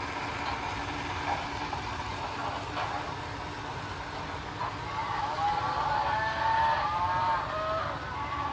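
Two MTH Berkshire model steam locomotives running at full speed on the track, a steady running noise, with a multi-note steam whistle from the locomotives' sound systems sounding for about three seconds starting about five seconds in.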